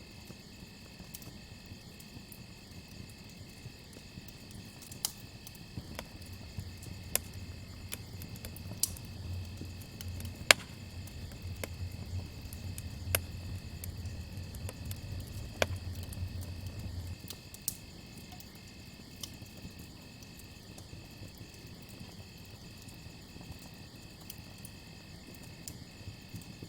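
Crickets chirping in a steady, evenly pulsing trill, with a campfire crackling: scattered sharp pops and snaps, the loudest about ten seconds in. A low rumble sits underneath through the middle stretch.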